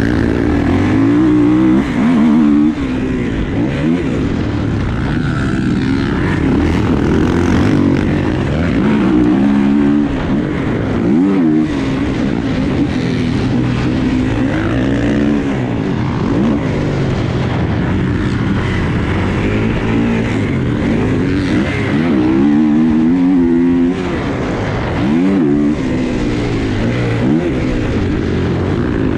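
Dirt bike engines on a motocross track, revving hard and backing off over and over, the pitch rising and falling every second or two.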